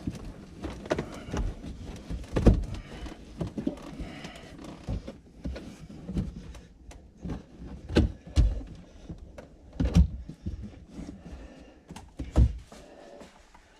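Irregular thuds, knocks and clunks as the carpet is pulled and worked loose inside a stripped car cabin, with the loudest knocks coming every couple of seconds.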